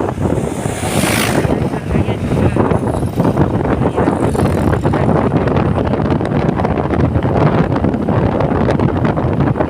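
Strong wind buffeting the microphone: a loud, steady, gusty rumble.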